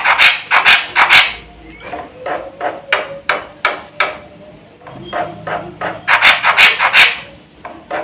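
Black-winged myna (jalak putih) giving harsh, clacking notes in rapid series, about three to four a second. The notes come in runs broken by short quieter gaps, with the loudest run near the end.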